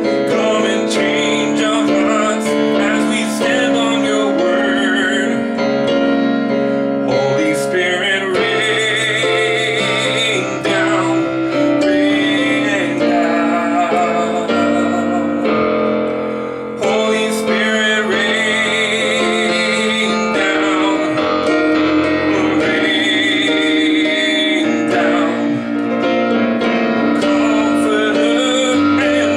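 Piano or keyboard playing a worship song in F major: held chords that change every few seconds under a melody line.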